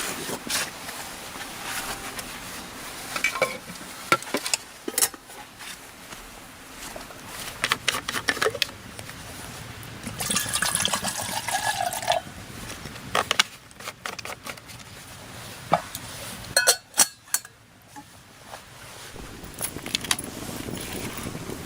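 Irregular sharp clinks and knocks, like dishes or utensils being handled, over a steady background hiss, with a short falling tone a little after halfway.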